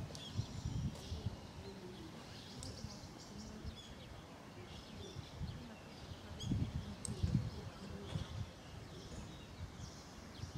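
Small birds chirping over a low, uneven outdoor rumble that swells briefly about six to seven seconds in.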